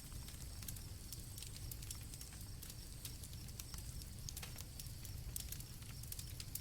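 Campfire crackling with irregular small pops over a low steady rumble, with crickets chirping faintly in a steady high trill.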